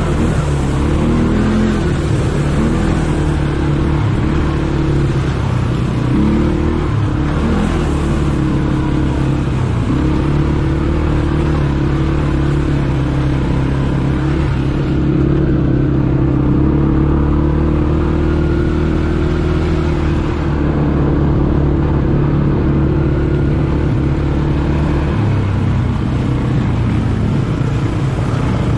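ATV engine running while riding, its pitch rising and falling with the throttle for the first several seconds, then holding fairly steady.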